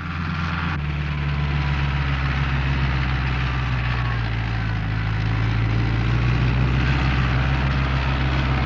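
International Harvester 684 tractor's diesel engine running steadily under load while pulling a mounted disc harrow, a little louder from about a second in.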